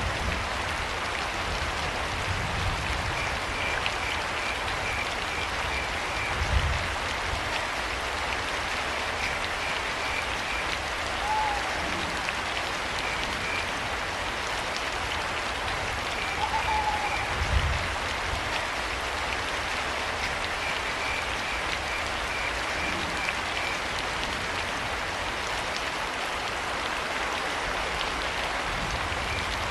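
Steady rain falling, with crickets chirping in short trains of high pulses and two brief owl hoots, one a little over a third of the way in and one a little past halfway. Two low thuds stand out above the rain, about a fifth and three-fifths of the way in.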